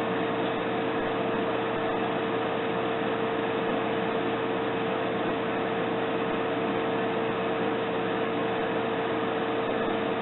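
Steady machine noise: an even hiss with one constant humming tone, unchanging throughout.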